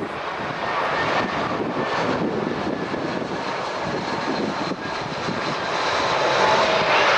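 Airliner's engines running, a steady rushing noise with a faint whine, getting louder near the end.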